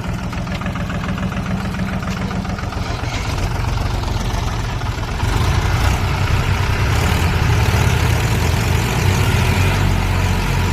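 Mahindra 275 tractor's diesel engine running steadily, getting louder about five seconds in.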